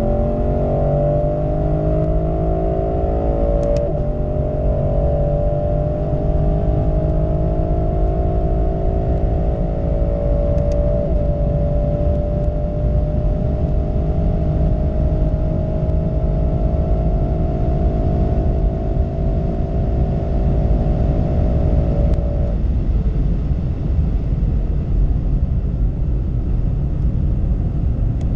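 Lexus LC 500's 5.0-litre V8 (2UR-GSE) at full throttle, heard from inside the cabin: the engine note rises steadily and drops back at two upshifts of the 10-speed automatic, about four and eleven seconds in, then climbs slowly at high speed. After about 22 seconds the throttle closes, and the engine note fades under a loud low rush of wind and tyres as the car slows.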